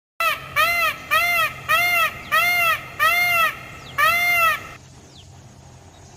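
Peacock calling: a fast series of about seven short, loud honking calls, each rising and falling in pitch, stopping about three-quarters of the way through.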